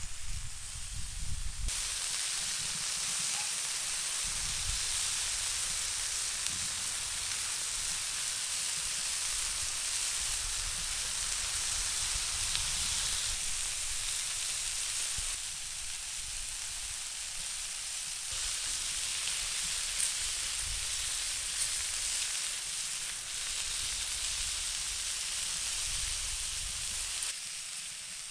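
Food sizzling as it fries: a steady frying hiss whose level jumps abruptly several times, with a low rumble beneath.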